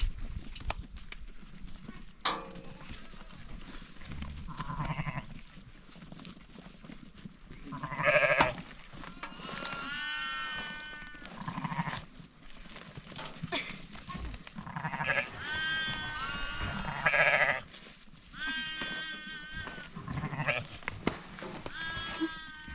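Sheep and goats bleating repeatedly, one quavering call after another through the second half.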